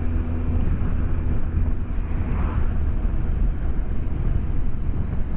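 BMW K1200S motorcycle's inline-four engine running steadily at cruising speed, with wind and road noise, heard through a microphone inside the rider's helmet.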